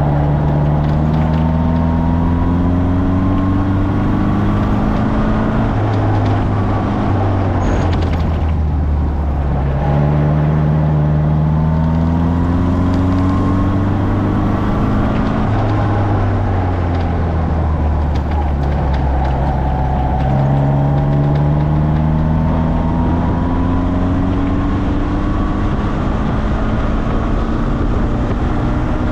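Morgan sports car engine heard onboard, accelerating hard again and again, its pitch climbing each time, with brief drops between climbs where the driver lifts off or changes gear.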